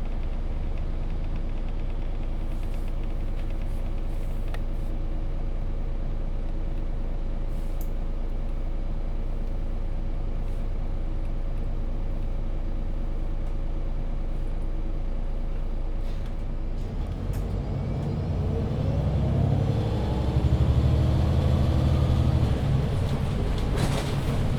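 MAN Lion's City 19C EfficientHybrid articulated bus's diesel engine idling steadily, heard from inside the bus. About seventeen seconds in, it revs up as the bus pulls away through its Voith automatic gearbox, the engine note rising in pitch and getting louder.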